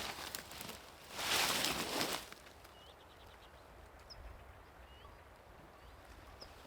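Rustling of movement outdoors for about two seconds, loudest near the second second. Then small birds call faintly, with short rising chirps and a brief ticking trill.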